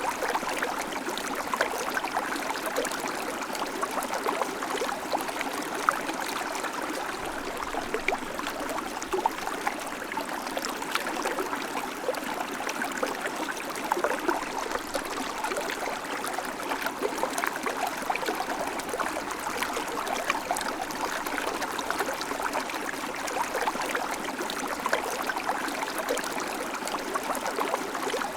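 River water flowing steadily, a continuous rushing with many small splashes and gurgles running through it.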